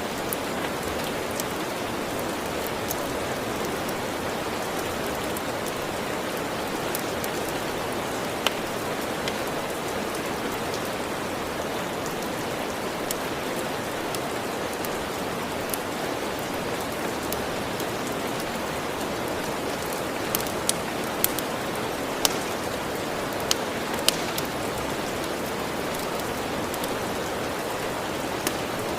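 Steady rain hiss with scattered sharp pops from a crackling wood fire, several of them coming close together about two-thirds of the way through.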